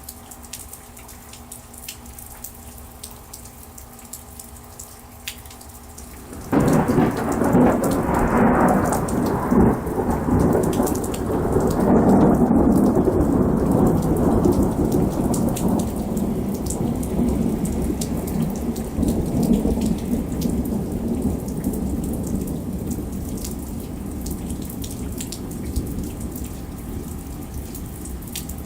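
Thunderstorm: steady rain with scattered sharp ticks. About six seconds in, a sudden loud thunderclap breaks and rolls on as a long rumble that slowly fades.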